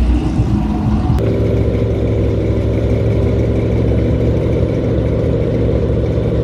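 Car engine idling steadily at close range, coming in abruptly about a second in.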